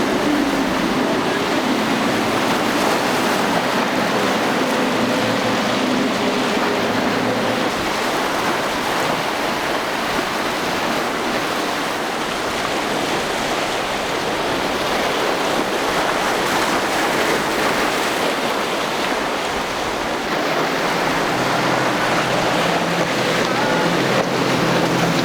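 Waves and surf washing steadily, with wind on the microphone and boat engines droning underneath; a lower engine hum comes in about twenty seconds in.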